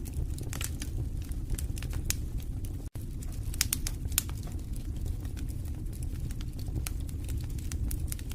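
Wood fire burning in a fireplace: a steady low rumble of flames with frequent sharp crackles and pops from the burning wood. The sound drops out for an instant about three seconds in.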